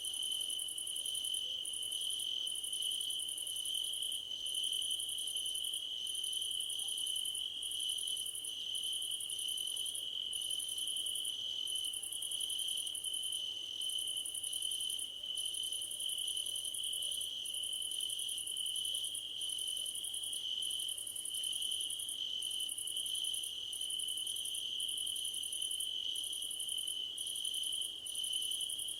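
Crickets singing: one steady, unbroken trill, with a second, higher-pitched song coming in short bursts separated by brief pauses.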